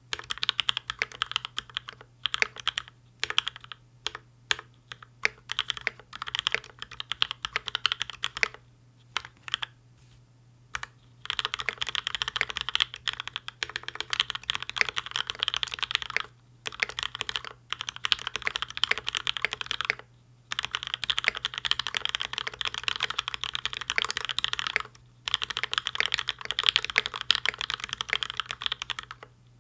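Mechanical keyboard with PBT Cherry-profile keycaps being typed on quickly over a desk mat: fast runs of clacking keystrokes lasting several seconds, broken by brief pauses.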